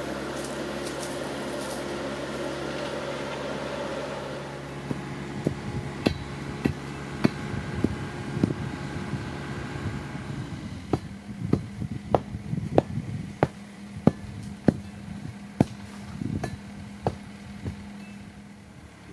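A motor running steadily; from about five seconds in, sharp irregular knocks and clanks, roughly one or two a second, sound over a lower hum.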